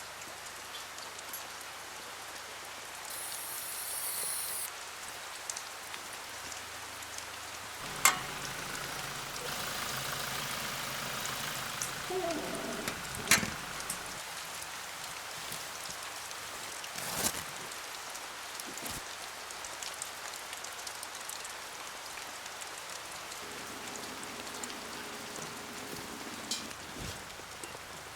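Steady rain falling, with a few sharp knocks or clicks and brief other sounds over it.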